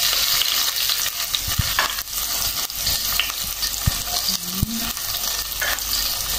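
Chopped garlic and onion frying in hot oil, a steady sizzling hiss, with a few light knocks in the pot.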